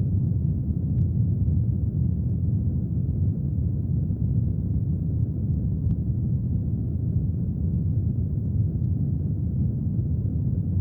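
Brown noise: an even, deep hiss with almost no treble, carrying on without change. A few faint, scattered ticks are like raindrops.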